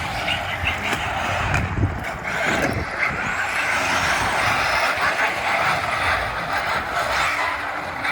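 Radio-controlled electric cars running, a continuous motor and tyre noise that swells and fades as they drive.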